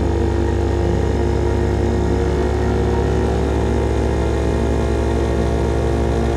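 CFMOTO Papio SS motorcycle's small single-cylinder engine running through a slip-on exhaust at a steady engine speed, a loud, even exhaust note that holds one pitch.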